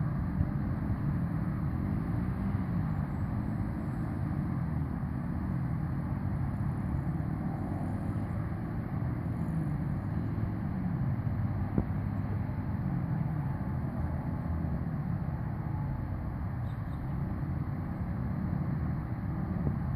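Dirt bike engines revving up and down as the bikes ride around, their pitch rising and falling over and over.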